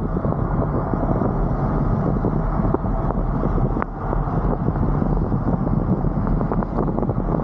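Wind buffeting the microphone of a roof-mounted camera: a steady, dense low rumble with scattered faint ticks.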